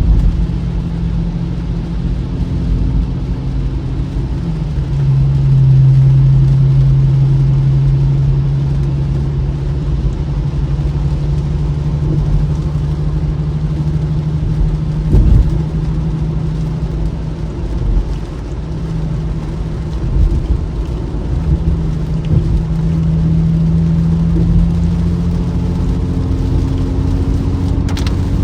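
Infiniti Q50 driving on a wet road: a steady low engine note over tyre and road noise. The engine note comes up about five seconds in, eases off around eighteen seconds, and returns for a while after twenty seconds.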